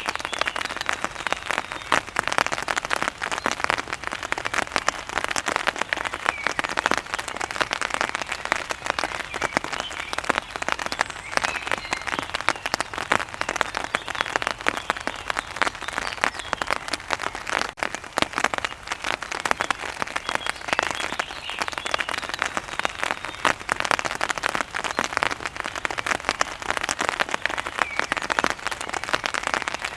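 Heavy rain falling on a hard surface: a dense, steady patter of countless drops.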